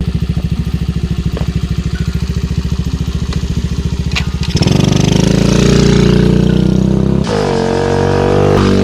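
Small engine idling with a fast, even putter, then running louder at higher revs from about halfway in.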